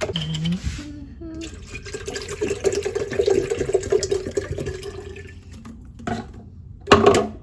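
Water running into a kettle: a steady splashing rush of about four seconds that stops a little before the end, followed by a brief vocal sound.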